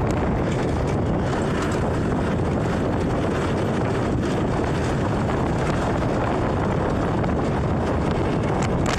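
Steady rushing noise of a vehicle travelling on a highway in heavy rain, with wind and road noise blending into one even roar.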